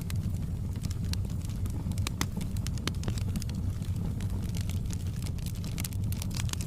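Fire in a fireplace crackling: frequent irregular sharp pops and snaps over a steady low rumble.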